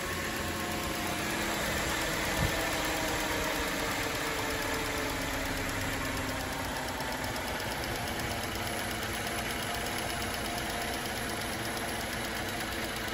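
Cadillac CTS replacement V6 engine idling steadily, heard from above the open engine bay, with one brief click about two seconds in.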